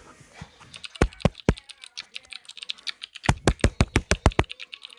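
Sharp knocks in uneven bursts: three about a second in, then a quick run of about eight around three and a half seconds, with lighter clicks between.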